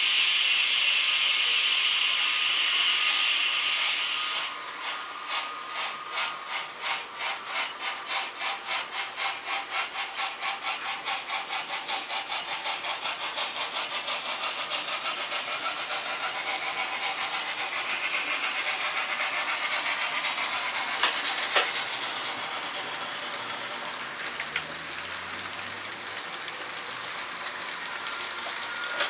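Sound-equipped H0-scale model steam locomotive pulling away: a loud hiss of steam for about four seconds, then exhaust chuffs that start slow and quicken, settling into a steady fast beat. A couple of sharp clicks come about two-thirds of the way through.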